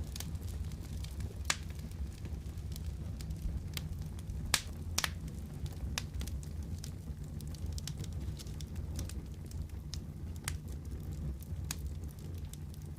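Wood fire in a fireplace crackling, with irregular sharp pops over a steady low rumble of flame.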